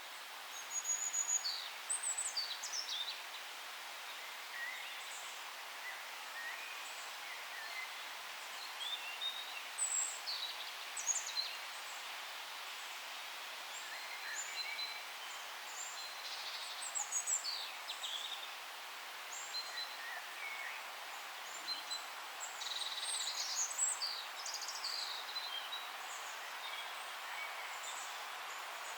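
Several songbirds singing and calling in a forest: short chirps, trills and quick falling whistles from different birds, in clusters every few seconds, over a steady hiss of forest ambience.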